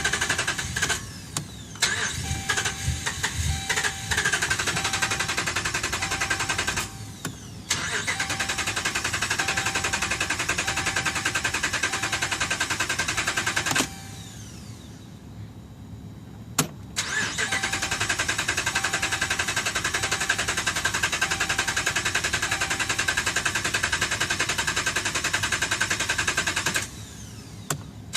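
2011 Ram 1500 engine cranking on the starter without catching, in long cranks of several seconds broken by short pauses about a quarter, a half and near the end of the way through, with a repeating beep through the cranking. A crank-no-start, later traced to a defective TIPM (Totally Integrated Power Module).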